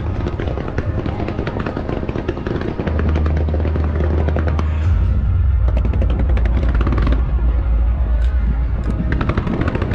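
A fireworks display firing low fans of comets and fountains, a rapid run of sharp pops and crackles, with loud music and a heavy steady bass playing under it.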